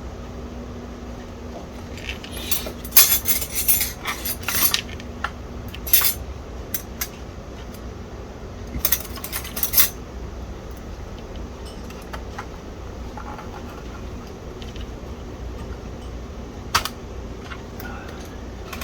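Small hard objects clicking and clinking on a workbench in several short clusters, with single clicks between, over a faint steady hum.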